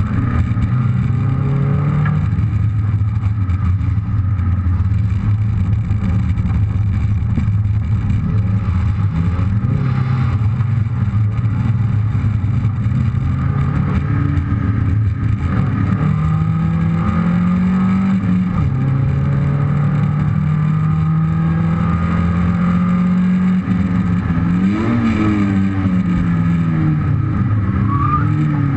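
Rally car engine driven hard through a stage, its pitch stepping up and down with gear changes and rising and falling quickly once near the end. Heavy tyre and road noise runs underneath, heard from a camera mounted low on the car.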